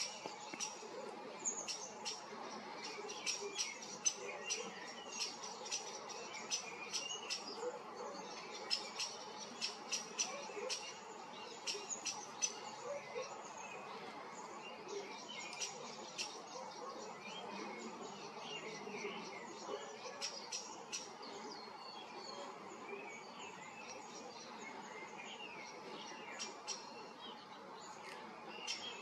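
Small birds chirping and twittering in many short, sharp, irregular chirps over a steady low background noise. The chirps grow sparser in the second half.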